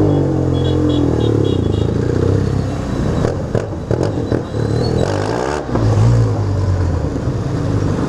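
Motorcycle engines running and revving, their pitch rising and falling, with a few clattering knocks about three to four seconds in.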